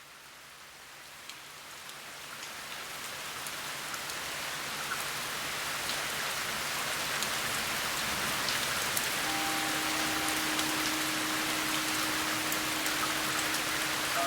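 Steady rain with small droplet ticks, gradually growing louder. About nine seconds in a Tibetan singing bowl begins to ring softly, a low sustained tone under the rain.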